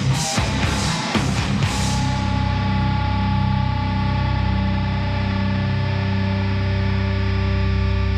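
Hard rock song with distorted electric guitar: regular hits that sound like drums play until about two seconds in, then stop, and a distorted guitar chord is left ringing, held steadily.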